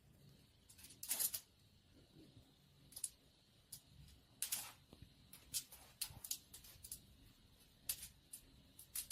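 Faint, irregular clicks and rustles in a quiet room, about a dozen short sounds scattered over several seconds.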